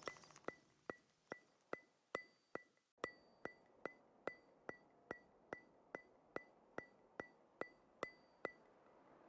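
Soft, evenly spaced ticks from the background music track, about two and a half a second, each with a brief high ring, like a clock or wood-block tick in a quiet break of the music.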